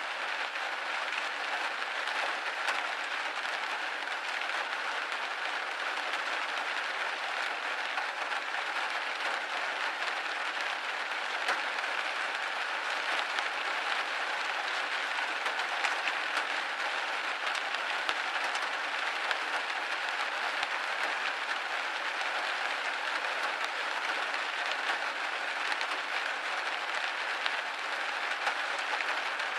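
Steady rain pattering against a window pane, a dense even patter of fine drops.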